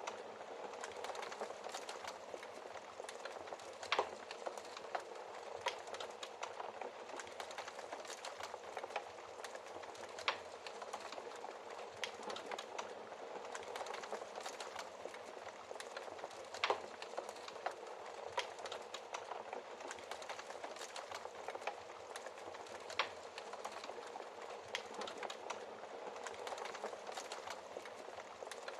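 Wood fire burning in a fireplace: a steady crackle with scattered sharp pops, a few louder ones standing out.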